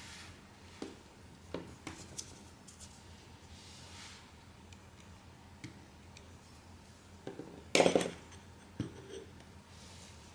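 Small hard clicks and taps from repair tools and phone parts being handled, with a louder clatter about eight seconds in.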